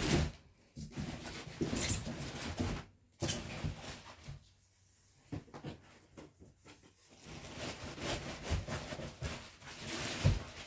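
Cardboard boxes and packaging being handled: irregular rustling and scraping with a few dull knocks near the end.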